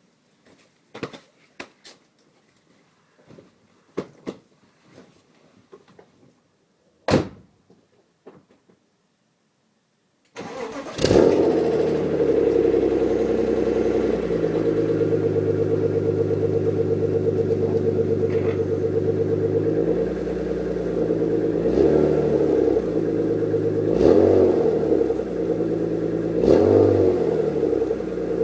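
A few clicks and knocks, then a BMW E36 328i's 2.8-litre straight-six starts about ten seconds in, flares briefly and settles into a steady idle through the stock muffler with its silencer flap removed. Engine speed swells briefly a few times near the end.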